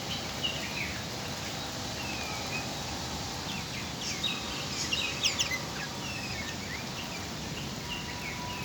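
Steady hiss of heavy rain, with birds chirping over it in short sweeping calls, busiest around the middle.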